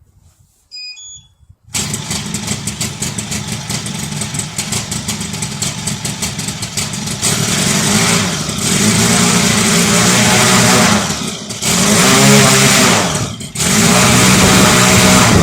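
Valach four-stroke model aircraft petrol engine running on a test stand during running-in. It comes in suddenly about two seconds in, runs louder and faster from about seven seconds in, and dips briefly twice near the end.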